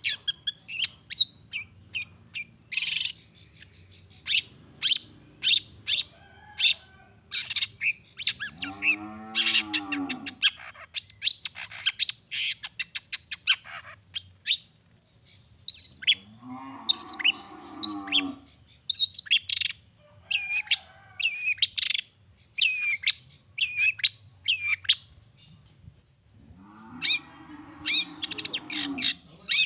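Long-tailed shrike (cendet) singing a fast run of sharp, high chirps and squawks. Three times a longer, much lower, drawn-out call rises and falls.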